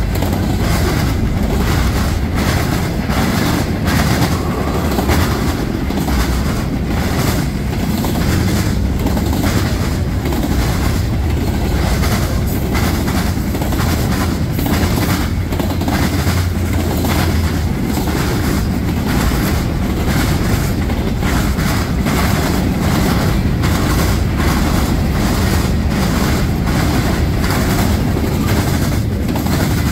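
A freight train at speed passing over a railroad diamond crossing. Its wheels pound across the crossing's rail gaps in a rapid, continuous run of hard impacts over a steady low rumble of rolling cars.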